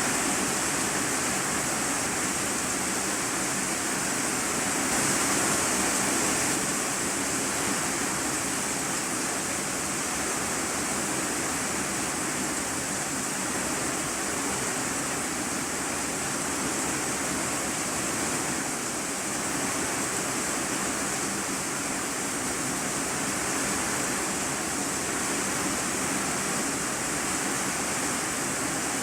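Heavy rain falling on an iron-sheet roof, heard from the room underneath: a dense, steady hiss that swells briefly about five seconds in.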